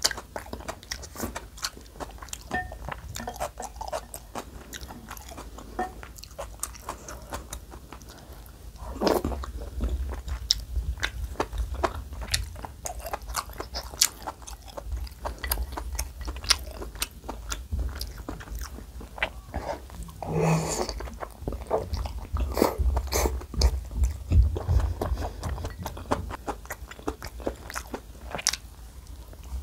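Close-miked eating sounds: chewing soft dumplings and rice cake soup from a wooden spoon, with many wet mouth clicks and lip smacks and a longer wet sound about two-thirds of the way through.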